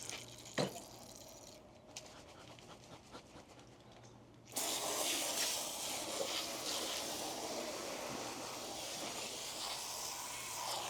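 A sharp click about half a second in, then an aerosol can of wasp spray jetting a steady hissing stream, starting about four and a half seconds in and cutting off suddenly near the end.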